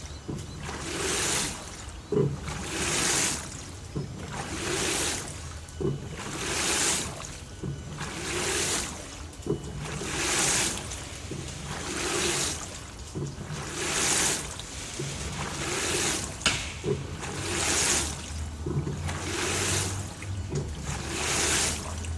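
LG TurboDrum top-loading washing machine washing a full load of bedding: water sloshing through the drum in regular swooshes about every two seconds, each followed by a short knock, over a steady low motor hum.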